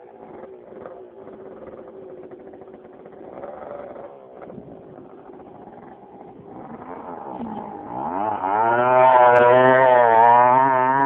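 Suzuki DS80 dirt bike's small two-stroke single-cylinder engine running at low revs, then revving up loudly about eight seconds in, its pitch wavering as the throttle is worked.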